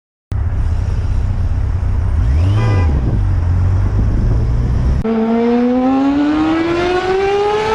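Motorcycle riding noise: a loud, steady low rumble with wind on the microphone, then about five seconds in the engine accelerating hard, its note climbing steadily for nearly three seconds before it drops at a gear change.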